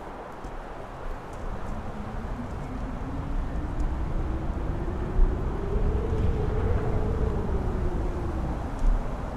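Strong wind on a mountain top, buffeting the microphone with low rumbles and a couple of thumps. A howling tone rises in pitch toward the middle, then sinks and fades near the end.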